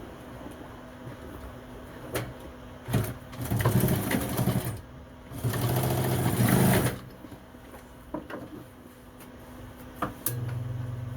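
Sewing machine stitching in two runs of a second or two each, about three and five seconds in, with rapid even strokes. A low steady hum starts near the end.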